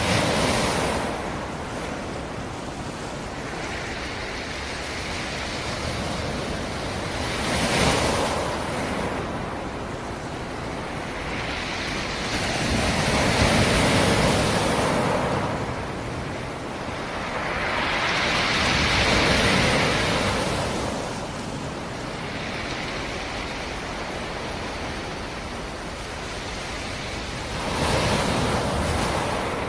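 Black Sea surf: waves break on the shore about five times, each surge swelling into a loud wash and ebbing back into a steady hiss.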